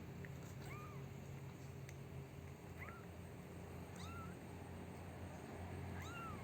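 Newborn kittens mewing: short, thin, high-pitched mews, about four of them a second or two apart, over a steady low hum.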